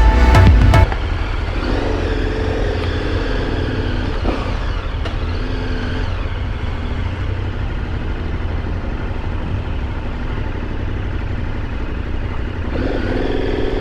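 Motorcycle under way at a steady road speed. Music cuts off about a second in.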